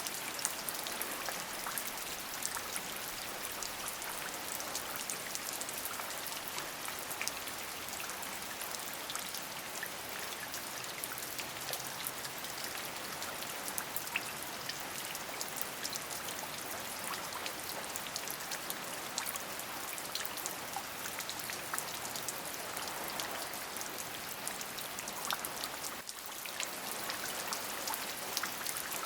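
Steady rain, with a dense patter of individual drops over an even hiss. It briefly softens about 26 seconds in.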